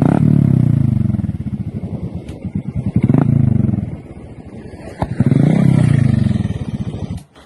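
Hero Super Splendor's single-cylinder engine beating through an aftermarket silencer, revved three times, each rev rising and falling back. It cuts off abruptly near the end.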